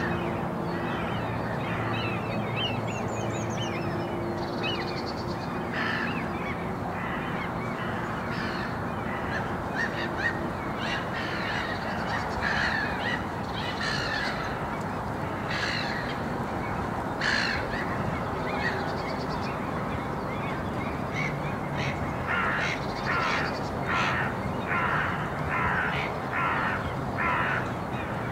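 Birds calling, with scattered short calls and a thin high twitter early on. Near the end comes a run of about six loud calls, one roughly every 0.7 s. A steady low background hum runs beneath.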